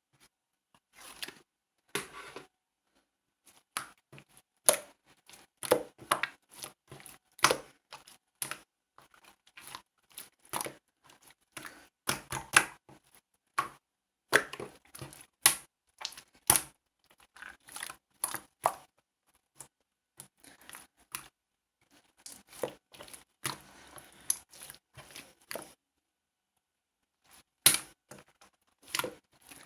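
Slime being played with by hand: irregular sticky clicks and pops, with a pause of about two seconds near the end.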